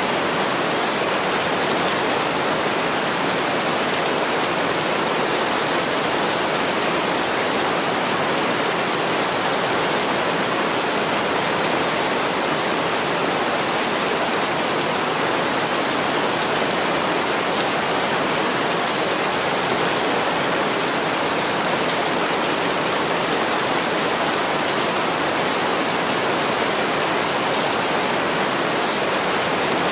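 Heavy rain falling steadily on a window, a dense, even hiss with no separate drops or pauses.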